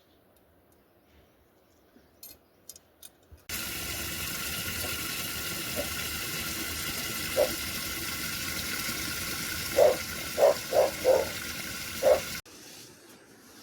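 Steady rushing water that cuts in abruptly about three and a half seconds in and cuts off just as suddenly near the end, with several short, low blips over it in its last few seconds. A few faint clicks come before it.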